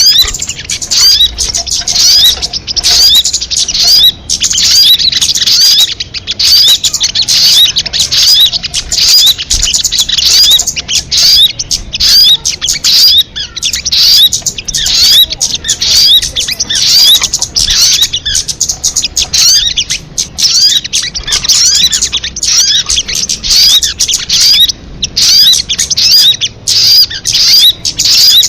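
Sogon bird singing: a continuous, rapid stream of high chirps and twittering, made up of many quick falling whistled notes with hardly a break.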